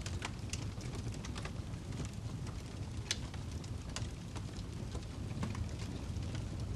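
Wood fire burning in a fireplace: irregular sharp crackles and pops from the burning log over a steady low rumble of the flames, one of the louder pops about three seconds in.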